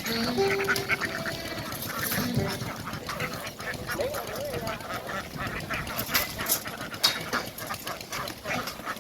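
A large flock of domestic ducks quacking continuously, many calls overlapping into a dense chatter.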